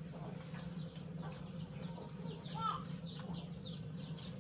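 Birds chirping: a quick series of short, high, falling chirps begins about halfway through, over a steady low hum.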